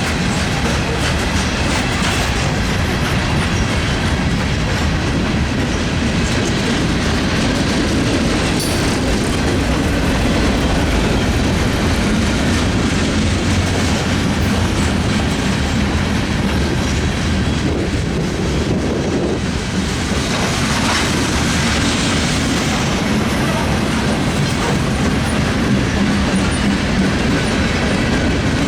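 Norfolk Southern freight train's cars rolling past, with a steady rumble and wheels clicking over the rail joints.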